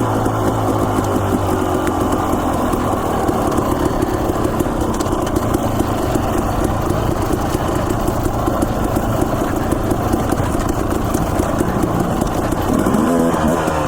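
Dirt bike engine running along a trail, its pitch rising and falling with the throttle near the start and again near the end, steadier in between.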